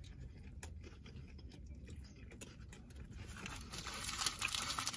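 A person chewing a mouthful of burger: soft, wet mouth sounds with small clicks, getting louder and busier in the second half.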